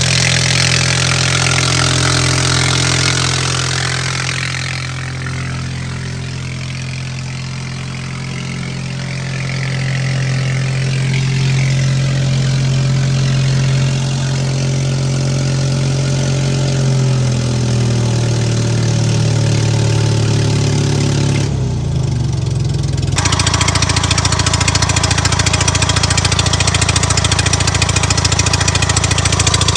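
Bobcat 732 skid steer's gasoline engine running steadily. Its pitch drops about two-thirds of the way through, then it turns louder and busier for the last several seconds. The governor belt is loose.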